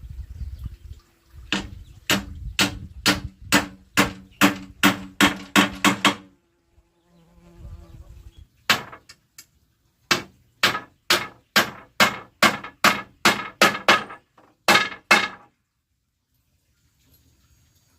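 Hammer blows on wood, in two steady runs of about three strikes a second with a pause of a couple of seconds between them.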